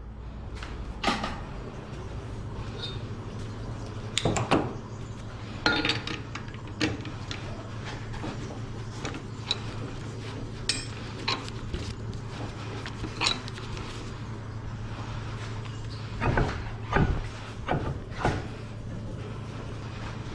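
Scattered knocks and clinks of tools and wood being handled in a woodworking shop, over a steady low hum.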